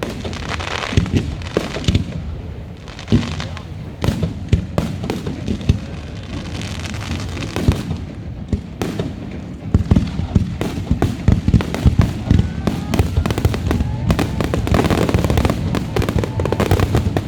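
Fireworks going off, loud bangs one after another, turning into a rapid, near-continuous string of bangs from about ten seconds in.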